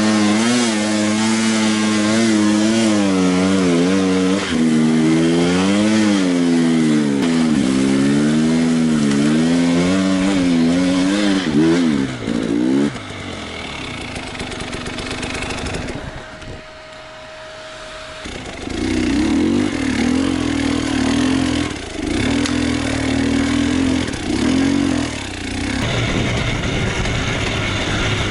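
Enduro motorcycle engine revving up and down again and again as the throttle is worked over rough terrain. About halfway through it drops to a lower, quieter running for a few seconds, then revs up and down again.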